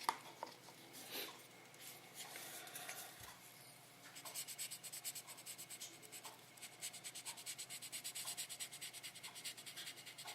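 3600-grit sandpaper rubbed back and forth over the painted body of a plastic scale model car in wet sanding. There are a few light handling clicks at first, then quick, even strokes, about five a second, from about four seconds in.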